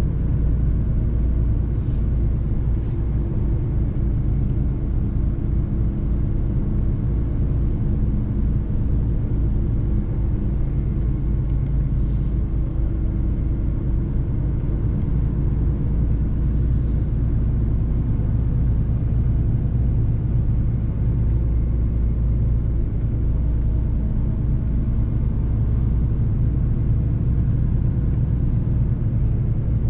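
Mercedes-Benz truck's diesel engine running at a steady speed while driving, a low, even rumble with a constant engine note.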